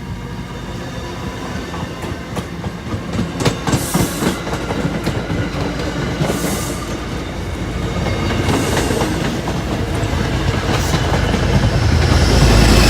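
Passenger train running through on the rails, wheels clacking over rail joints, with a deeper rumble building toward the end.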